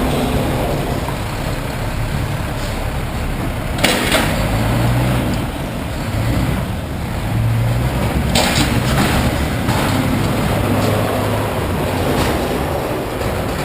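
Heavy truck engine running steadily, with a sharp bang about four seconds in and several shorter knocks and clatters later on.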